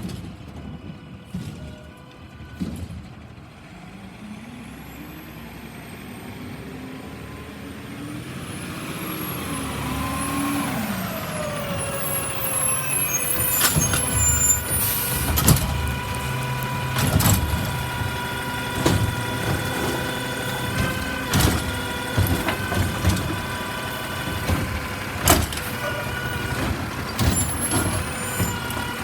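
Recycling truck working: its engine and hydraulics rise in pitch and loudness over the first several seconds, then run on with a steady whine, broken by repeated sharp clanks and knocks.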